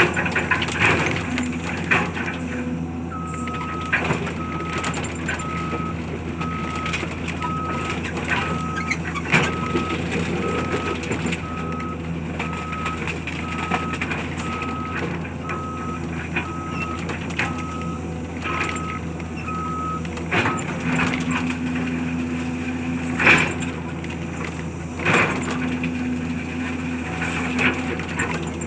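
Heavy diesel machine running steadily, its reversing alarm beeping about once a second for some seventeen seconds and then stopping. Scattered knocks and bangs, the loudest two near the end.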